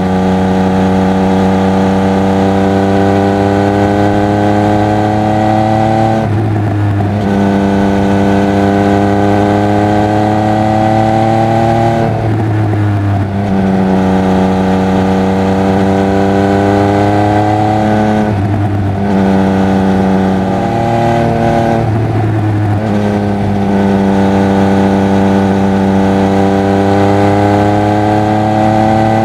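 Triumph Speed Triple 1200 RR's inline three-cylinder engine and exhaust pulling under load, its note rising steadily for several seconds at a time. The note breaks briefly about every six seconds and picks up again lower, as at gear changes.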